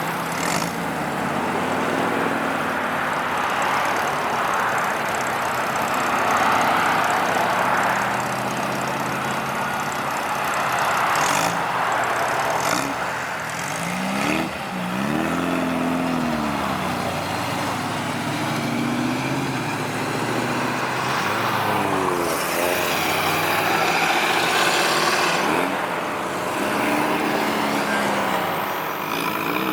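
Cars driving past with their engines running, several engines revving that rise and fall in pitch, over a steady noisy rumble of traffic.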